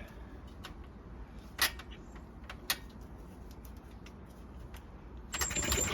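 A few light clicks of handling, then near the end a short noisy burst as the Seagull two-stroke outboard motor is yanked over on its homemade pull cord; it turns over but does not keep running.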